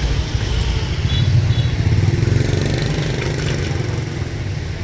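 Low engine rumble of a motor vehicle running close by, growing a little louder between one and two seconds in, then easing off.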